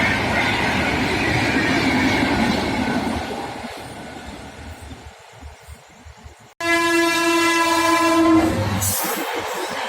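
A high-speed Rajdhani Express train rushing past, its wheel-on-rail noise fading away over a few seconds. After an abrupt cut, a locomotive horn sounds one steady blast of about two seconds, followed by the noise of the train running.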